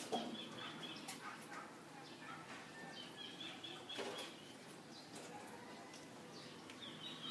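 Faint birds chirping in a few short trills, over a low steady background hum, with a couple of soft knocks.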